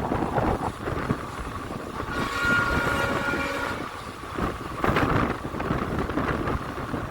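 Passenger train running on the track, with continuous irregular rattling and knocks. A steady high tone sounds for about a second and a half, starting about two seconds in.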